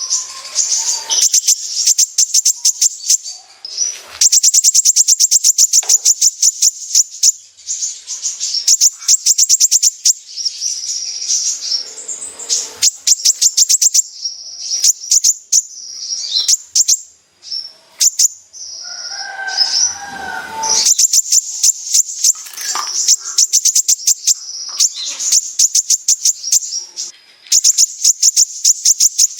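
A kolibri ninja sunbird singing its fast 'besetan' song: bouts of rapid, high-pitched ticking trills, repeated with short pauses between them.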